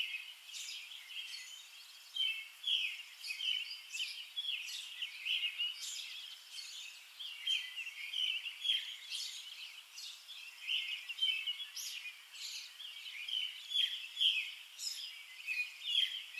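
Small songbirds chirping and singing together, a busy run of short, quick calls.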